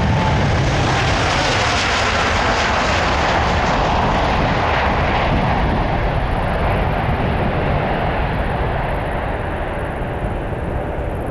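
Jet airliner passing close by, its engine noise loud at first, then dulling and slowly fading as the higher sounds drop away.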